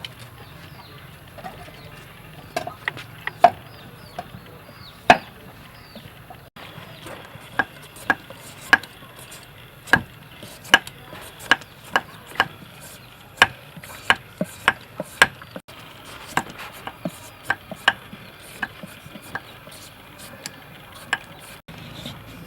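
Knife chopping food on a wooden cutting board: sharp single chops at an uneven pace, about one or two a second through the middle stretch and sparser elsewhere.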